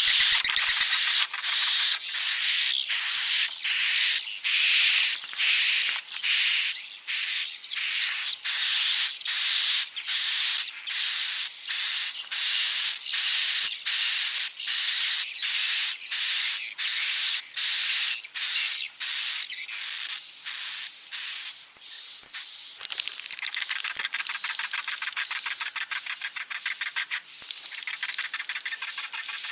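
Edible-nest swiftlet calls played back as a swiftlet-house lure track: a fast, continuous run of high, buzzy chirps about two a second, with a thin, steady, high whistle running over them. After about 23 s the chirps blur into an almost unbroken twitter.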